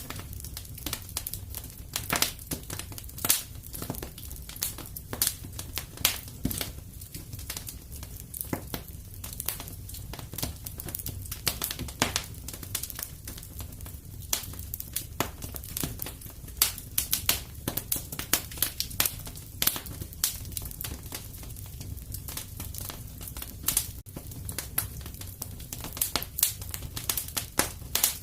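Wood fire crackling and popping in a fireplace: irregular sharp snaps, several a second, over a low steady rumble of the flames.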